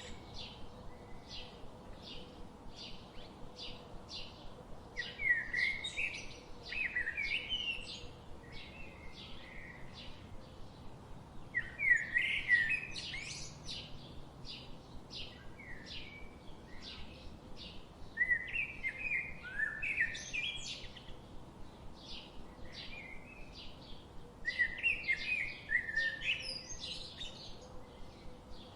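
Songbirds in a forest: a short chirp repeats about twice a second throughout, while a louder warbling song phrase comes in four times, every six or seven seconds.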